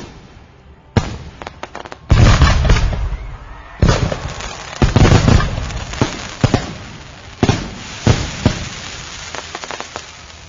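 Fireworks exploding in a rapid, uneven series of bangs, each followed by crackling. The heaviest volleys come about two seconds in and again near the middle, and they thin out toward the end.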